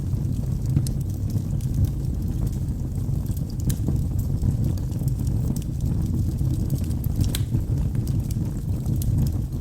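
Wood logs burning in a fireplace: a steady low rumble of flames with scattered sharp crackles and pops, a couple of them louder.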